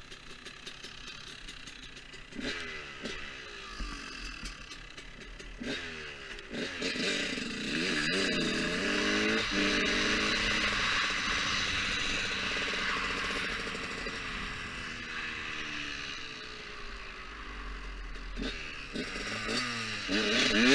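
Motocross bike engine revving up and easing off repeatedly as it is ridden, with quick throttle blips near the end, over a steady hiss.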